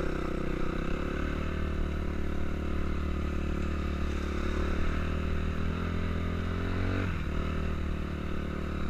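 Suzuki RM-Z 250 single-cylinder four-stroke motocross engine running at steady revs, with a brief dip in revs about seven seconds in.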